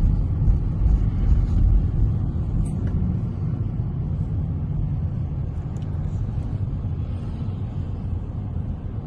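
Steady low rumble of a car in motion, heard from inside the cabin, a little louder during the first couple of seconds.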